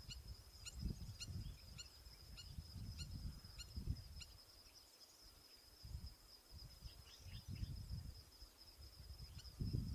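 Wind buffeting the microphone in gusts under a steady thin high whine, with a run of short high bird calls, two to three a second, that stop about four seconds in and pick up again near the end.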